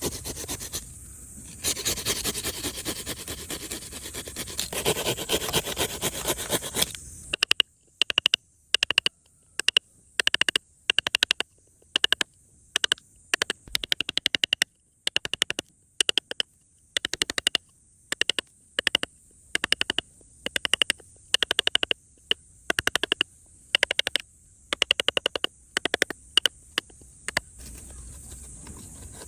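A tool scraping, first as a steady rasp for about seven seconds, then as a long run of short, quick scraping strokes in clusters with brief silent gaps between them.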